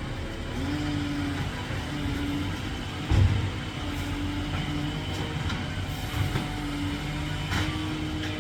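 Garbage truck engine running, its steady hum rising and settling several times, with one heavy thump about three seconds in.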